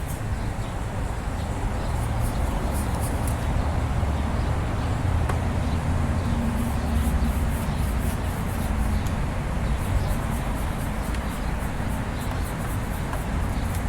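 Steady low mechanical rumble with an even background hiss, without speech.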